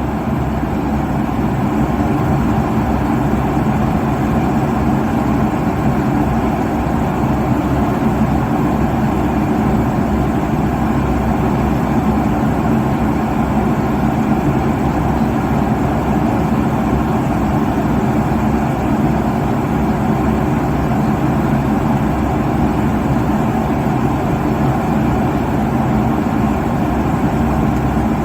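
Airliner cabin noise at cruising altitude: the steady hum of the jet engines and rushing airflow, strongest in the low and middle pitches, without change.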